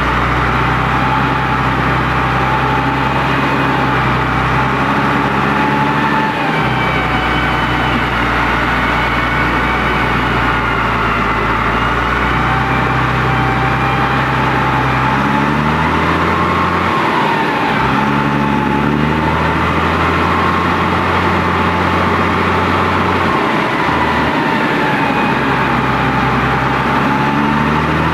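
Fendt 515c tractor's diesel engine running loud through its exhaust. The engine speed steps up and down a few times, with a higher whine wavering in pitch above it.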